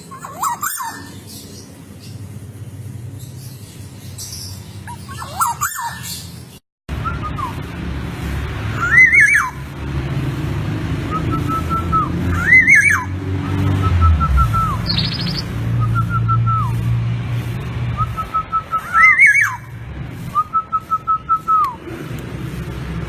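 Black-naped oriole (kepodang) calling again and again: short whistled notes that rise and fall, with short runs of quick even notes on one pitch in between, over a low steady hum. The sound cuts out briefly about seven seconds in.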